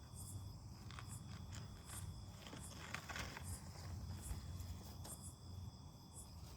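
Night insects, crickets among them, chirping faintly: short high chirps repeat a little more than once a second over a steady high-pitched insect drone and a low background rumble. There is a brief rustle about three seconds in.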